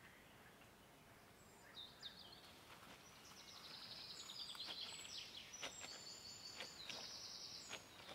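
A songbird singing fast, high trilling phrases from about two seconds in, faint over a quiet background, with a few soft clicks in the second half.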